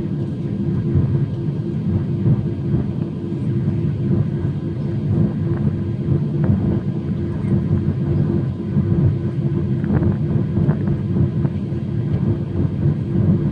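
Jet airliner engines running steadily: a low rumble with a steady hum over it.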